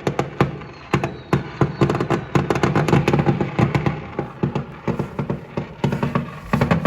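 Many fireworks going off at once, a dense barrage of bangs and crackles over a low rumble.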